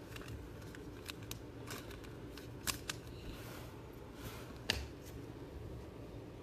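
Trading cards being handled: soft sliding and rustling with a handful of sharp clicks, the loudest near three and five seconds in, over a steady low hum.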